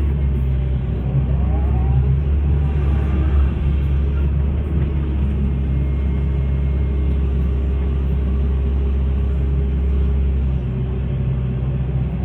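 Hitachi hydraulic excavator's diesel engine running steadily under work, a low even rumble, with a faint rising whine about a second in.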